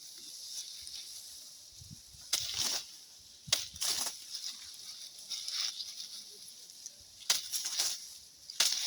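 Plant stalks being chopped with a blade: about seven sharp, irregular cuts, each followed by a brief rustle.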